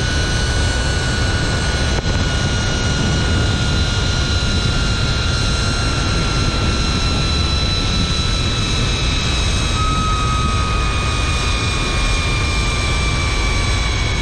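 Zipline trolley running along the steel cable: a high whine in several tones that slowly falls in pitch, over heavy wind rush on the microphone.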